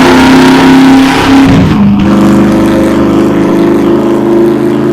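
Car engine revving hard, its pitch dropping and sweeping about a second and a half in, then running steady and high.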